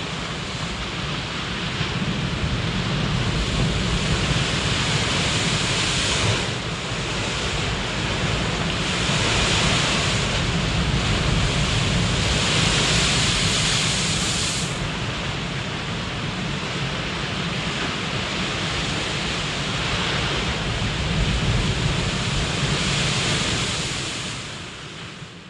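Waves washing in: a steady rush of water that swells louder every few seconds, fading out near the end.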